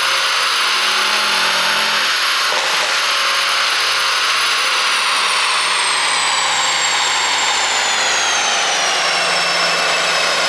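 Mercedes-AMG S63 running steadily on the move, a continuous mechanical and road noise with a high whine that slowly falls in pitch over the second half; no exhaust pops are heard.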